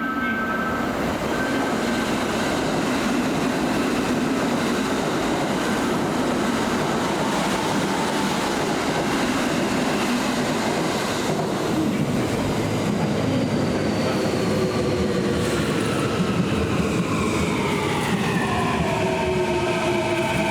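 Kintetsu Nara Line electric train running along the platform with loud, steady wheel-on-rail noise; from about thirteen seconds in, the whine of its traction motors falls steadily in pitch as it brakes.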